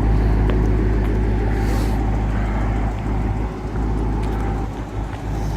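Dodge Charger Scat Pack's 6.4-litre HEMI V8 idling steadily through a muffler-delete exhaust, a deep even burble with no revving.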